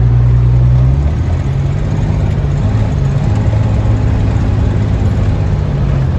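The 4.3-litre V6 of a custom 1947 Ford F1 pickup running steadily, a low engine drone whose note shifts about a second in.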